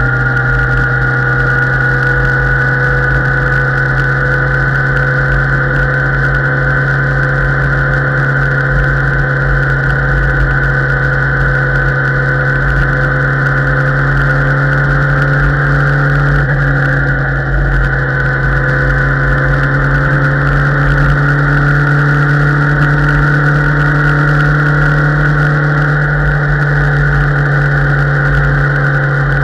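Motorcycle engine running steadily at cruising speed, picked up by a camera mounted on the moving bike. Its pitch holds almost constant, with a slight dip in level about seventeen seconds in.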